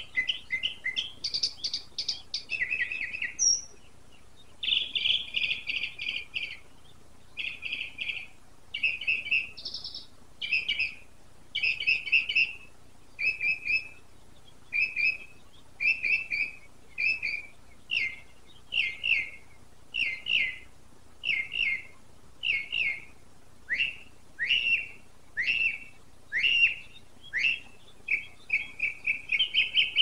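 A songbird singing a long, varied song of short high phrases, each phrase repeated several times before it switches to another, with barely a pause between them.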